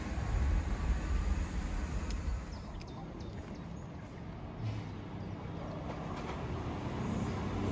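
Low wind rumble on the microphone at first, then a distant CrossCountry Voyager diesel multiple unit approaching, its engine and rail noise growing louder toward the end.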